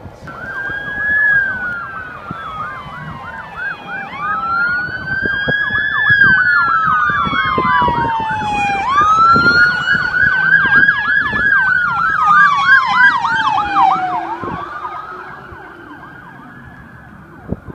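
Two emergency vehicle sirens sounding together: a slow wail that rises and falls over about four seconds, and over it a rapid yelp of quick up-and-down chirps. They are loudest through the middle and fade away over the last few seconds as the vehicles pass.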